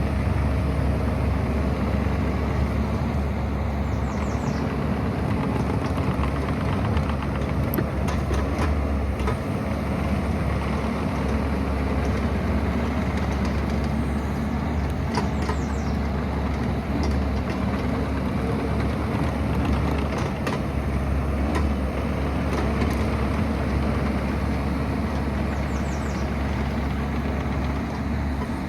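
Excavator's diesel engine running steadily, with a few faint clicks and knocks.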